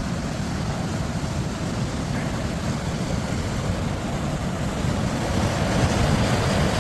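Wind buffeting the camera microphone, a steady low rumble that rises slightly near the end.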